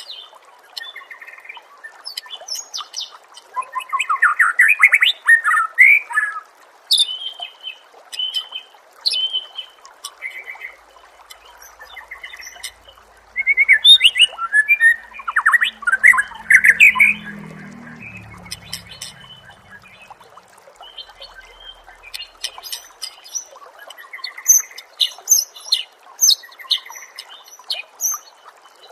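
Songbird-training recording (masteran) of songbird song: short high chips and whistles throughout, with two loud bursts of fast, trilling, warbling phrases, one about four seconds in and one about halfway through. A faint low rumble sits under the second burst.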